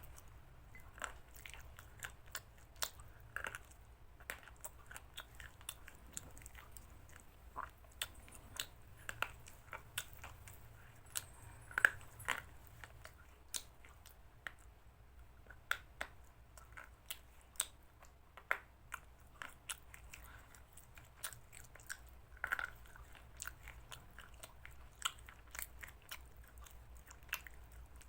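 A person chewing chicken salad close to the microphone, with irregular sharp clicks of biting and chewing throughout. The loudest comes about twelve seconds in.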